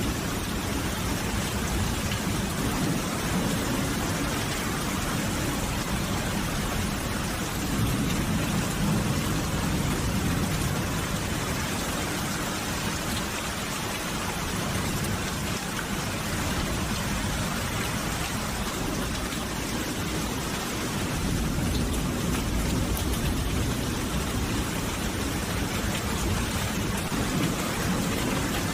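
Steady heavy rain falling, with a low rumble that swells a couple of times, like distant thunder.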